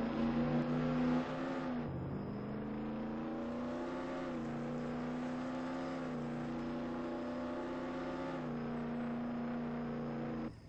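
Car engine running at steady revs, its pitch dropping slightly about two seconds in and then holding; it cuts off abruptly near the end.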